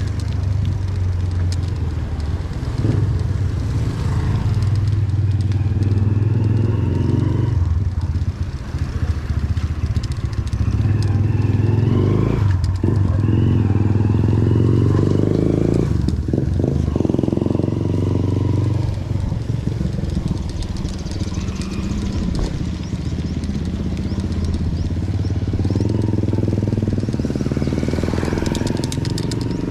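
Engine of a moving vehicle running steadily, its low rumble swelling and easing every few seconds.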